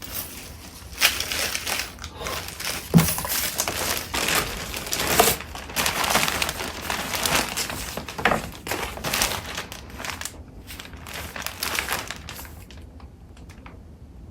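Paper and cardstock being handled and shuffled: crinkling rustles and sharp crackles, close up. The handling stops about two seconds before the end, leaving a few faint ticks.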